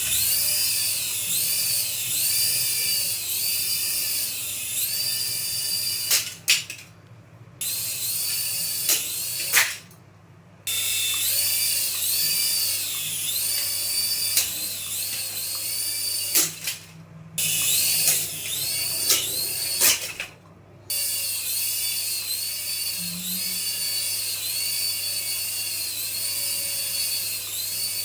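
Small electric motor of a radio-control toy whining at high speed, its pitch swelling and dipping. It cuts out briefly about four times, then starts again.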